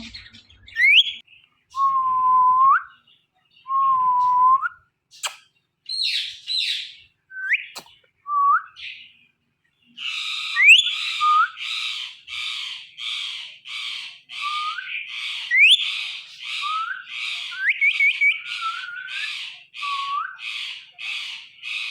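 Indian ringneck parrot whistling and calling: two level whistles that flick upward at the end, short rising chirps, then about halfway through a fast run of harsh repeated calls, about three a second, with rising whistles over them.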